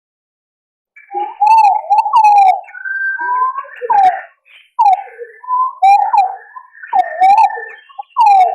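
Green pigeon calls played as a hunting lure: a run of wavering, gliding whistles with short gaps, starting about a second in.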